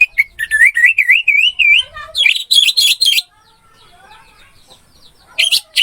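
Orange-headed thrush singing loud, varied whistled phrases: a run of wavy, swooping notes, then a quick burst of fast trills, with another short burst near the end. Fainter birds chirp in the background.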